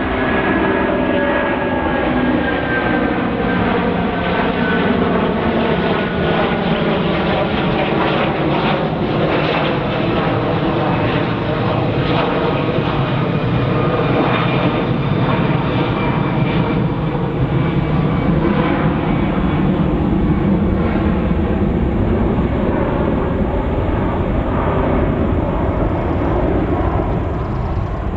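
Jet airliner's engines at takeoff thrust on departure, a steady rumble with whining tones that slowly fall in pitch over the first several seconds.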